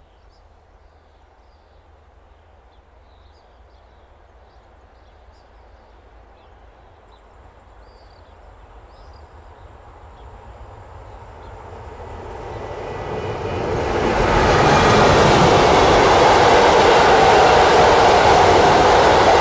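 A train approaching along the line, its rumble growing steadily louder for about fourteen seconds until it is passing close by at full volume; faint bird chirps are heard while it is still distant.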